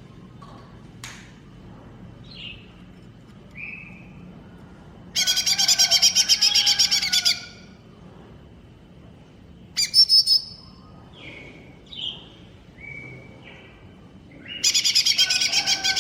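Cucak ijo mini, a small green leafbird, singing. Short scattered whistled notes, with a loud, rapid chattering trill about five seconds in lasting some two seconds, a brief burst about ten seconds in, and another loud trill starting near the end.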